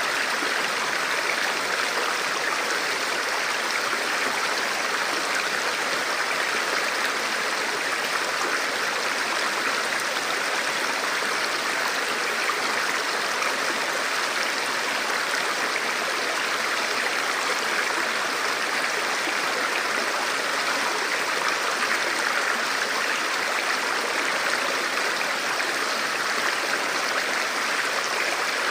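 Forest river or stream flowing over rocks: a steady, even rush of water.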